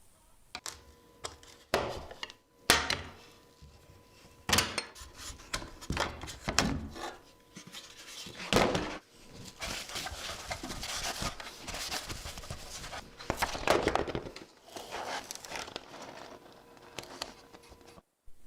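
Irregular handling noise from working vinyl film onto motorcycle plastics: scattered knocks and clicks, then several seconds of rubbing and scraping in the middle.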